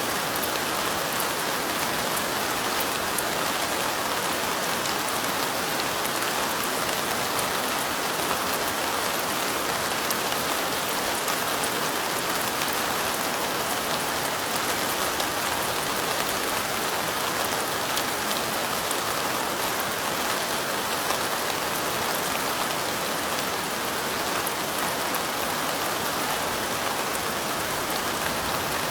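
Steady rain, an even, unbroken patter of many drops with no change in strength.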